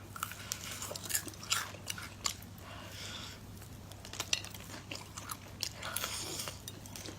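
Close-up sounds of a person biting and chewing squid, with many short irregular wet clicks and smacks.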